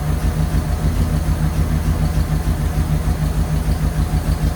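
Flathead Ford engine with Holley 94 carburetors idling steadily on freshly cleaned spark plugs, smoothing out.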